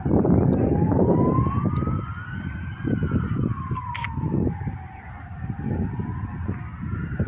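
A siren wailing, its pitch slowly rising and falling about once every five seconds, over a loud low rumble.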